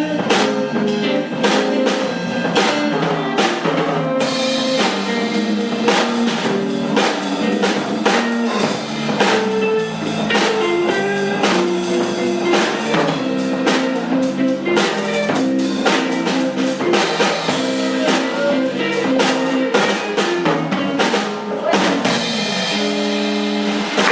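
Live band playing, with electric guitar over a drum kit keeping a steady beat with rimshots; a few long held notes close it near the end.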